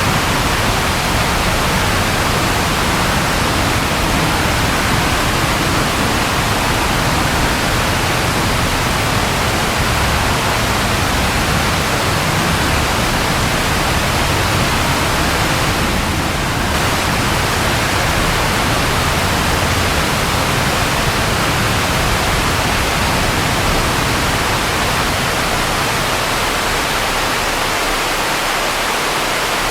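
Steady heavy rain falling, an even rushing hiss with no distinct drops or thunderclaps.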